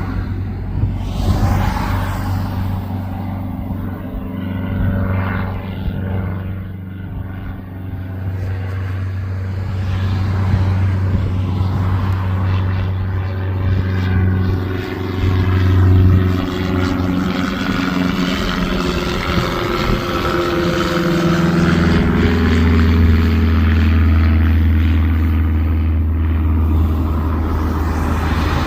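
Aircraft engines running loud as a plane passes low near the end of the runway. The sound builds and shifts slowly in pitch, louder in the second half.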